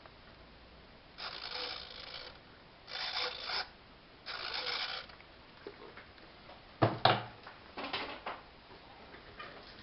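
Small mechanism of a model-aircraft parachute launcher working: three short whirring runs, then a few sharp clicks and knocks.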